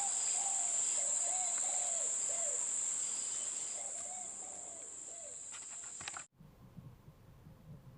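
Repeated short cooing calls of a dove, over a steady high-pitched insect drone; both cut off abruptly about six seconds in, leaving only a faint low rumble.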